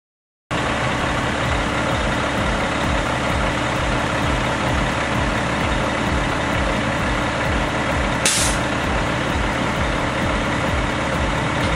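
Heavy diesel truck engine running steadily at idle, starting abruptly just after the beginning, with a brief high hiss about eight seconds in.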